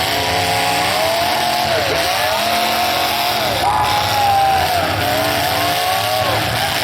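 Demolition derby car engines revving hard, their pitch rising and falling over and over as the cars accelerate and back off.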